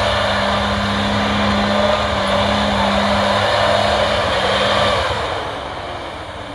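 Motocross bike engine running at a steady speed, then fading away about five seconds in.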